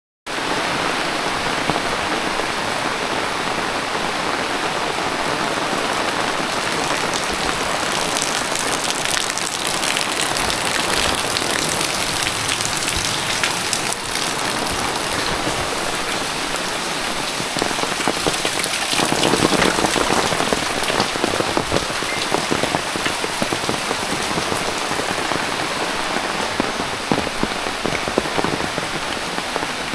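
Steady heavy rain falling, with many close drops hitting. It swells louder for a couple of seconds about two-thirds of the way through.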